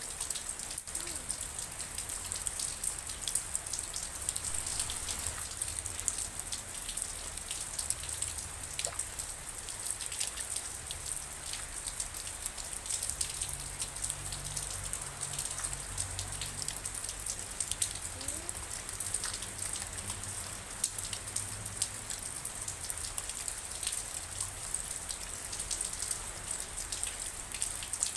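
Steady rainfall, a dense even hiss made of countless small, sharp drop impacts, with a faint low rumble underneath.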